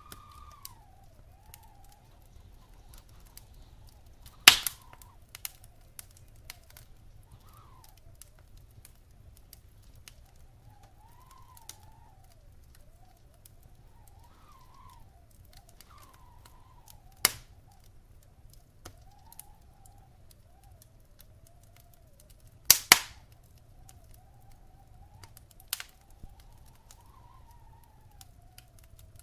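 Wood fire crackling in a fireplace: a steady scatter of small crackles with a few loud, sharp pops, the loudest about four seconds in and a quick double pop later on. Under it runs a faint tone that wavers up and down.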